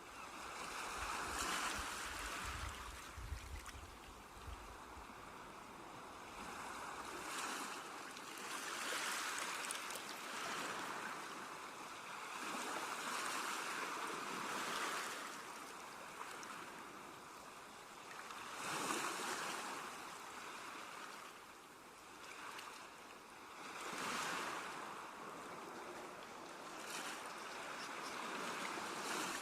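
Sea waves washing onto the shore, each surge swelling and ebbing every few seconds, with a low rumble during the first several seconds.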